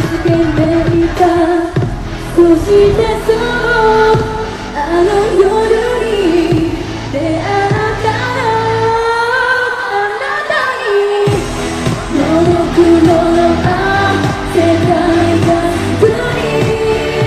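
A live pop song with a sung melody over a band or backing track. The bass and beat drop out briefly about nine seconds in, then come back.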